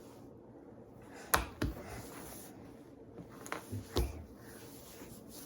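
Water trickling steadily from a washing machine's emergency drain hose into a pitcher, as the clogged machine is drained by hand. A few sharp knocks and taps of handling come through it, two about a second and a half in and two more around the four-second mark.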